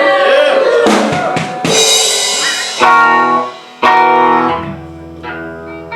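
A live band noodling between songs: a cymbal crash, then two strummed guitar chords that ring out, with a low bass note held under them near the end.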